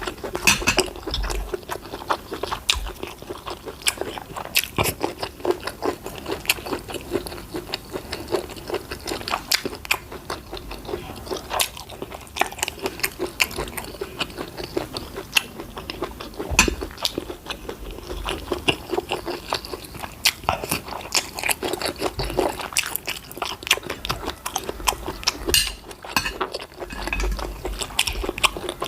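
A person chewing and biting food close to the microphone: a steady run of wet mouth clicks and crunches.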